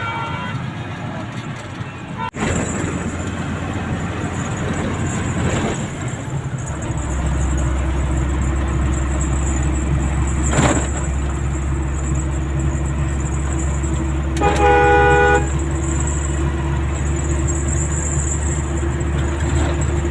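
Steady road-vehicle engine and traffic noise, a low drone that settles in a third of the way through, with a single knock near the middle. A vehicle horn blares once for about a second, two thirds of the way in, and is the loudest sound.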